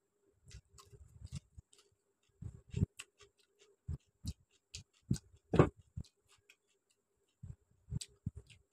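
Close-miked eating sounds: chewing rice and chicken curry, with irregular wet mouth clicks and smacks, one louder smack a little past halfway.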